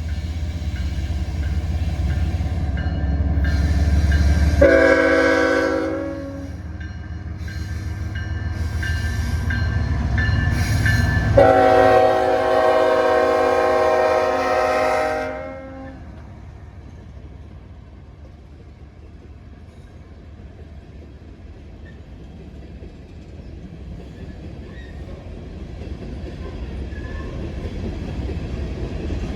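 Diesel freight locomotive passing close, its engine rumbling heavily while its air horn sounds a short blast about five seconds in and then a long blast of about four seconds. The rumble then falls away and slowly builds again near the end as the train continues.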